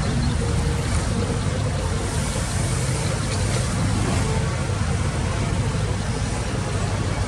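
Heavy diesel engine of earthmoving machinery running steadily, a constant low hum with no sudden knocks or changes.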